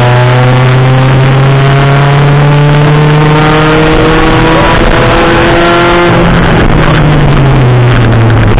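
Sprint rally car's engine heard loud from inside the cabin, pulling hard with its pitch climbing steadily for about six seconds, then the engine note falls away.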